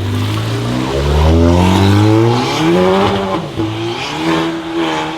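Car engine accelerating hard, its pitch rising steadily for about three seconds, then dropping briefly and holding a steadier note.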